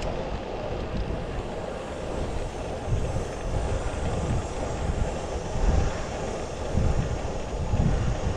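Wind buffeting the camera's microphone while riding a road bike, a low rumbling rush that swells in gusts a few times.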